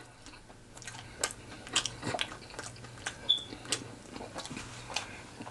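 Close-miked chewing of a mouthful of food: irregular wet clicks and smacks of the mouth.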